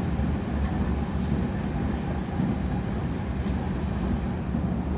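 Passenger train running, heard from inside the carriage: a steady low rumble with a couple of faint clicks.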